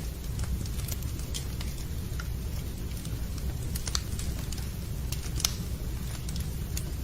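Wood fire in a fireplace crackling: a steady low rumble of the burning with scattered sharp pops and snaps, one louder pop about five and a half seconds in.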